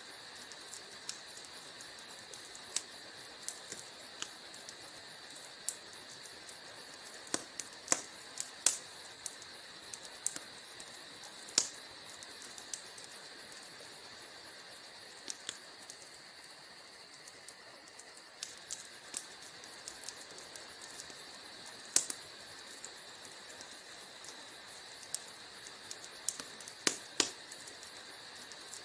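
Wood fire crackling in a fireplace: irregular sharp pops and crackles over a steady soft hiss, with a few louder pops scattered through.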